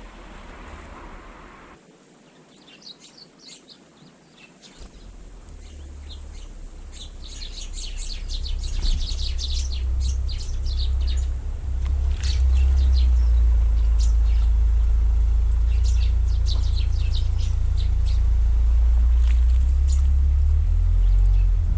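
Small garden birds chirping and twittering in quick runs of short notes, under a deep steady rumble that grows louder over the first half and then dominates.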